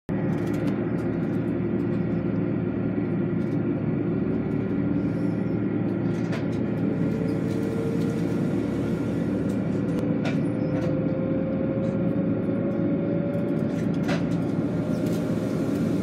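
Steady running noise of a vehicle, with a hum that rises slowly in pitch and a few faint clicks.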